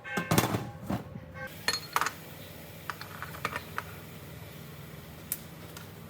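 Light metallic clicks and taps of small hard parts or tools being handled, densest in the first second and a half, then scattered, over a steady low hum.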